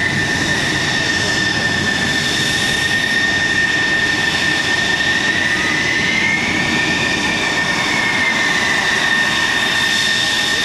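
Military jet engines running with a steady high whine over a constant rush, the whine rising a little and settling back about two-thirds of the way through.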